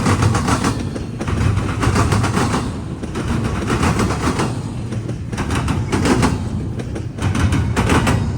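Freight car wheels pounding over a railroad diamond crossing: rapid, loud clattering impacts as each car's wheels bang across the crossing's rail gaps. The clatter comes in groups with brief lulls about every two seconds as the cars pass.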